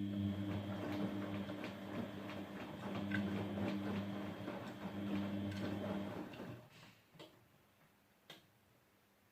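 Grundig GWM4762WE20 washing machine running with a steady hum and rapid ticking. The hum stops about six and a half seconds in, followed by two single clicks.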